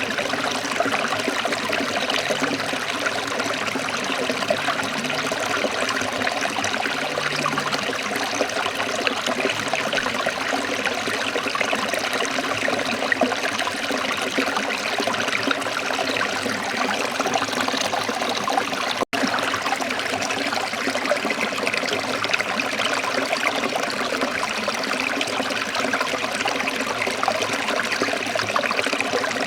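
Waterfall: water falling and splashing in a steady, unbroken rush. It cuts out for an instant about two-thirds of the way through.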